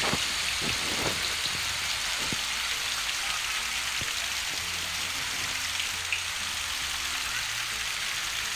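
Heavy rain and rushing floodwater: a steady hiss, with a few short knocks in the first couple of seconds.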